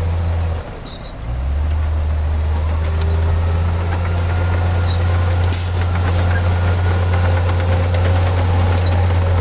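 Heavy diesel engine of earthmoving machinery running steadily with a deep hum; the sound drops away briefly about half a second in and comes back about a second later.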